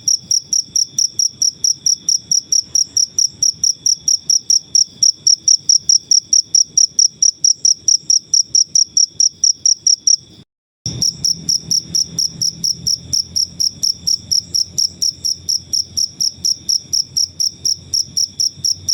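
Cricket chirping in a fast, even rhythm of about four high-pitched chirps a second. It cuts out for a moment about halfway through, then resumes.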